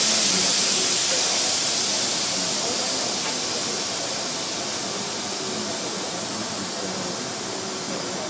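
Running noise heard inside a JR Kyushu 305 series electric train car on the move: a loud, even rushing hiss that slowly eases off, with faint wavering tones underneath.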